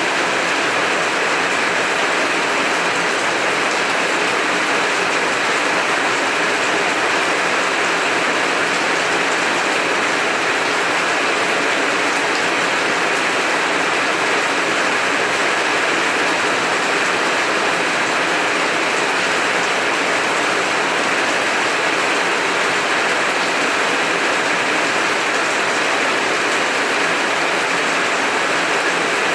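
Heavy rain falling steadily, an even unbroken hiss of drops on surfaces.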